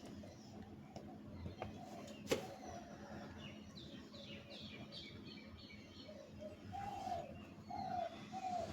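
Birds calling: a quick run of high, falling chirps about midway, then a series of lower, arched calls repeated about twice a second near the end. There is a sharp tap a little over two seconds in.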